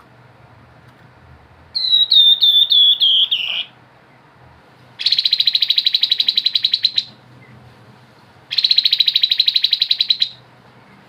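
Grey-headed babbler (tepus kepala abu) singing. A run of about six quick whistled notes comes first, then two fast rattling trills of about two seconds each, the 'ngebren' trill.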